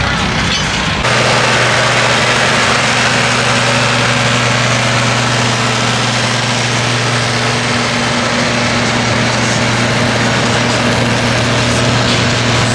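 Pulling tractor's engine running loud at a steady speed, holding one even pitch. It sets in abruptly about a second in.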